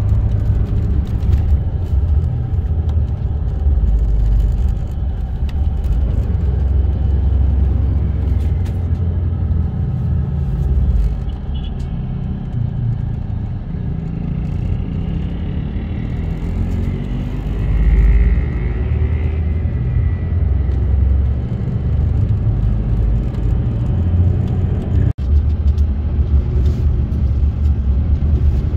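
A bus on the move, a heavy, steady low rumble of engine and road. A short swell of louder noise comes about two-thirds of the way through, and the sound breaks off for an instant near the end.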